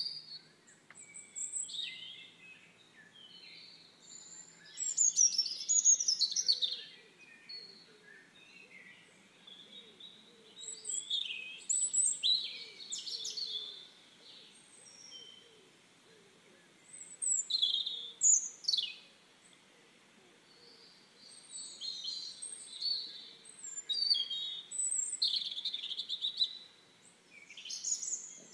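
Small birds chirping and twittering in short high-pitched bursts every few seconds.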